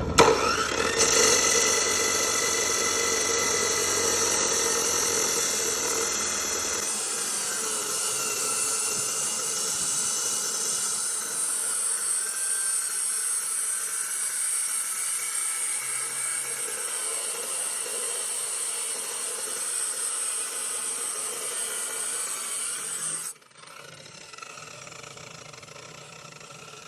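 A motor-driven cutting disc running steadily with a high whine as it cuts through a galvanized square steel tube at a 45-degree angle; it stops suddenly about 23 seconds in.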